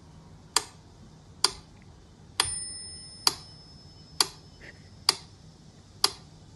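Sharp, evenly spaced ticks, a little more than one a second, with one ringing, bell-like tone about two and a half seconds in that fades away.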